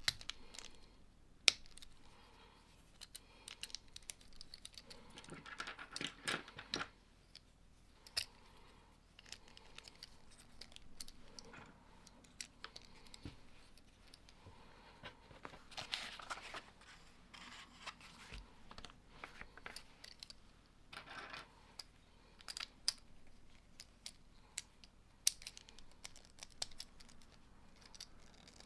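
Lego bricks being handled and pressed together: scattered sharp plastic clicks, with a few short stretches of rustling as pieces are sorted.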